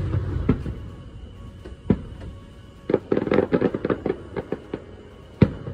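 Aerial firework shells bursting: single sharp booms a second or more apart, a dense run of rapid crackling reports from about three to nearly five seconds in, and another loud boom near the end.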